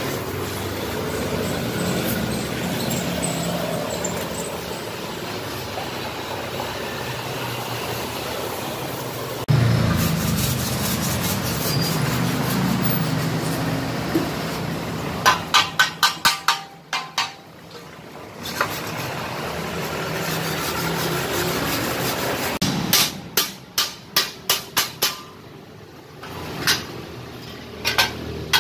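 Hammer blows on a metal motorcycle exhaust muffler being reworked, coming in quick runs of sharp strikes, several a second, over a steady rumbling background noise.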